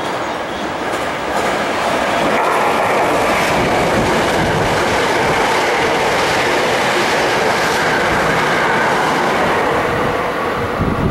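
A Hankyu Railway electric train passing through the station close by without stopping: a loud, steady rush of wheels on rail and running gear, building up in the first second or two, with a repeated clatter of wheels over rail joints, then easing off near the end as the last car goes by.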